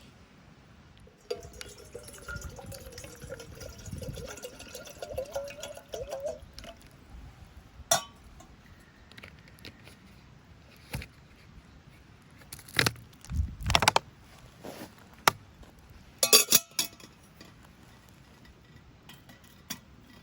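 Metal camping gear being handled: a few seconds of scraping with a pitched squeak, then scattered clinks and knocks, the loudest a quick cluster of clanks near the end.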